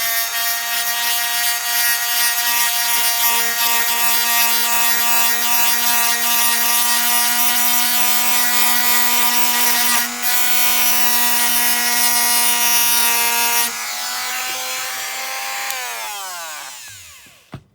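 Rotary multi-tool running at a steady high whine while grinding down the cast lugs of a die-cast metal model plane, with a rasping hiss from the grinding. The rasp stops about three-quarters of the way through, and near the end the tool winds down, its pitch falling until it stops.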